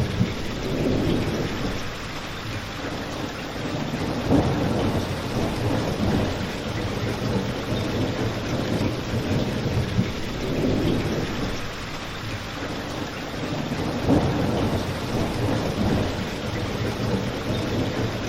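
Steady heavy rain falling, with a low rumble that swells and fades every few seconds.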